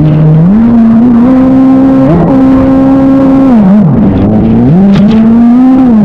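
Stand-up jet ski engine running hard under way, held at a steady high pitch. About two-thirds through the throttle eases off and the pitch drops briefly, then the engine climbs back up.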